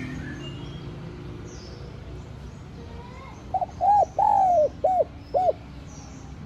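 Spotted dove cooing: one phrase of about five rounded coos, the middle one longest, a little past halfway through. Faint chirps of small birds sound in the background.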